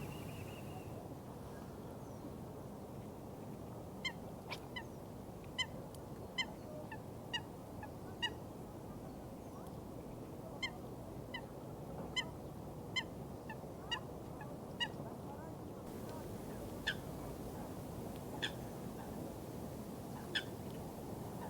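A bird giving short, sharp calls over and over, about one or two a second for several seconds and then more spaced out, over a steady rush of water.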